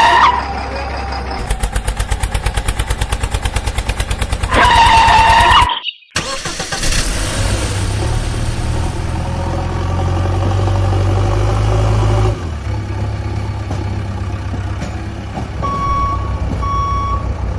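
Vehicle engine sound effects: a fast, even engine chugging, then a loud pitched tone that dips and rises, then a steady engine hum. A few evenly spaced beeps like a reversing alarm start near the end.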